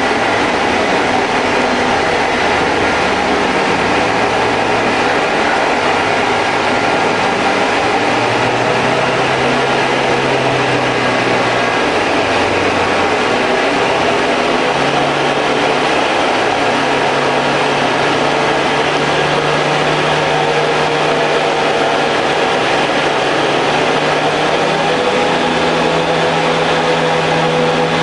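Automatic Ford Focus 1.8-litre four-cylinder engine running under load on a chassis dyno, its tyres driving the rollers with a loud, steady din. The engine note shifts pitch in steps a few times, then climbs slowly through the second half.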